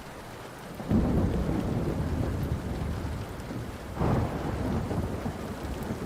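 Thunder rumbling over steady rain: one deep roll starts about a second in, and a second roll breaks around four seconds in, each fading slowly. A few faint crackles of a wood fire sound through the rain.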